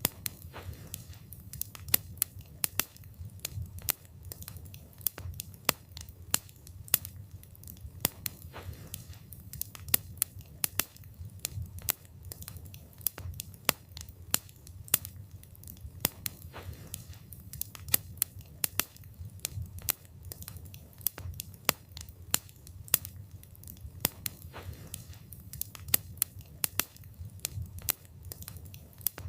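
Wood fire burning, with the wood crackling and popping in quick, irregular sharp snaps over a steady low rumble of the flames.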